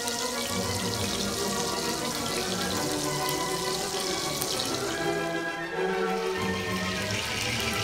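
Beef burger patties sizzling in oil in a cast-iron skillet, with background music playing over the crackle.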